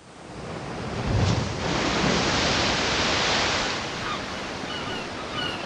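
Rushing sea water like surf or waves washing, swelling up over the first second with a low thump, then easing off, with a run of short high chirps in the second half.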